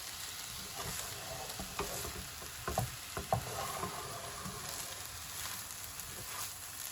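Vegetable fried rice sizzling in a hot pan as it is stirred, with a few short sharp knocks between about one and a half and three and a half seconds in.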